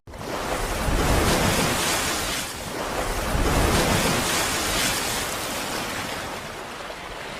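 A rushing, wind-like noise that starts abruptly, swells twice and slowly eases off.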